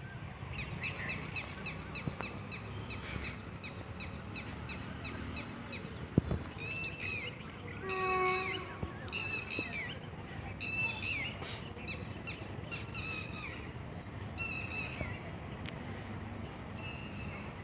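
Small birds chirping over and over in outdoor trackside ambience with a low steady rumble. About eight seconds in a short horn-like tone sounds once.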